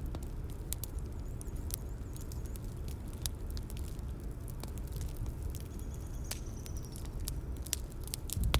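Bonfire crackling: irregular sharp snaps and pops over a steady low rumble of burning, with one louder knock near the end.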